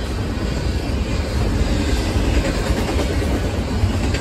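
Double-stack intermodal freight train rolling past, its steel wheels on the rails making a steady, deep rumble.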